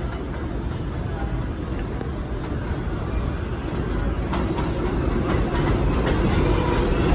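New York City Subway 4 train running on the tracks, its noise growing steadily louder.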